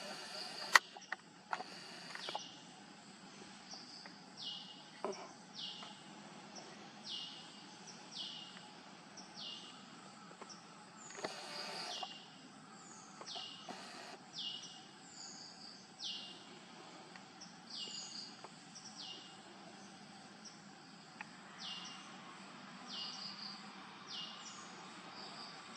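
Faint bird calls, a short call falling in pitch repeated about once a second over a quiet outdoor hiss. A sharp click about a second in is the loudest sound.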